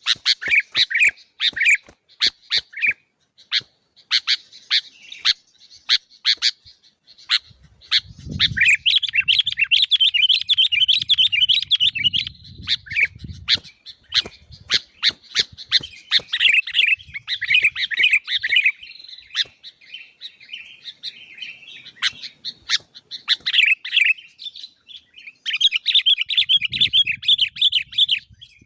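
A songbird singing a long, varied song of rapid chirps, sharp clicky notes and fast warbled phrases, with brief pauses between bursts.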